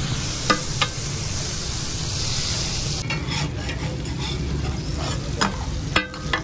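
Chicken pieces sizzling in oil on a large flat iron tawa griddle, with a metal spatula clinking and scraping against the plate several times.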